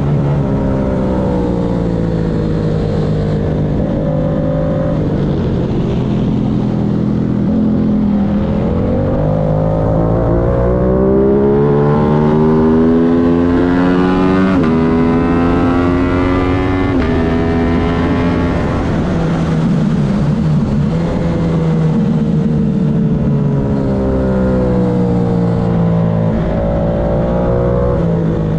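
Aprilia race motorcycle engine at racing speed, heard from on board: the revs fall as the bike slows for a corner, then climb through several upshifts, each marked by a short drop in pitch, before falling again and picking back up near the end.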